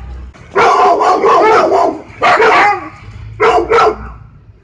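A dog barking in bursts: a quick run of barks lasting about a second and a half, then a single bark, then two quick barks near the end.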